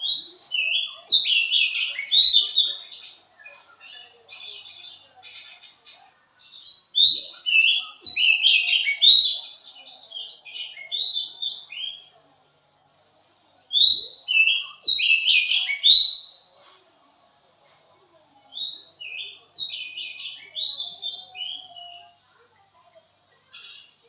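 Oriental magpie-robin singing loud, varied whistled phrases in four bursts, with short pauses between them.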